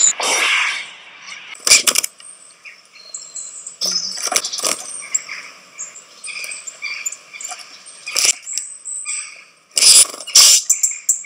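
Small birds chirping and calling in short, high, scattered notes, broken by several brief sharp noises, the loudest two about ten seconds in.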